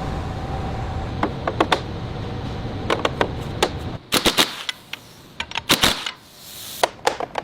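A steady noise that stops about four seconds in, with sharp clicks and knocks throughout that come in quick clusters in the second half.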